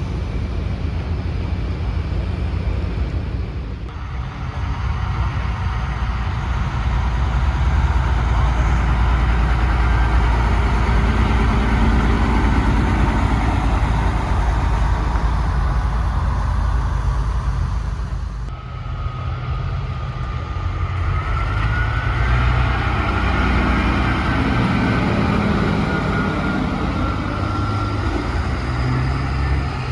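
Diesel trucks running past on the road with engine rumble and road noise. The sound changes abruptly about two-thirds of the way through, and then a high whine rises and holds.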